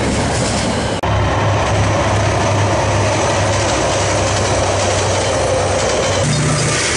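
Diesel-hauled freight trains passing close by: steady wheel and rail noise from the rolling container wagons, with a low steady locomotive hum. The sound changes abruptly about a second in and again near the end as one passing train gives way to another.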